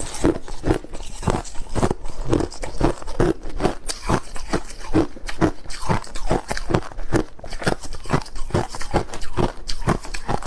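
Close-up crunching of crushed ice being chewed, with rapid irregular bites and crackles, several a second, throughout.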